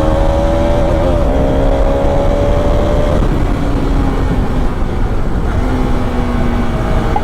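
Bajaj Pulsar RS 200's single-cylinder engine running under way, with a dense low rumble beneath it. The engine note climbs slightly, falls away about three seconds in, then holds at a lower steady pitch.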